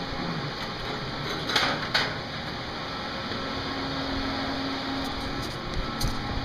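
Cooling fans in a CNC control box running with a steady whir and a faint hum, with a few light knocks from handling about a second and a half in, at two seconds, and near the end.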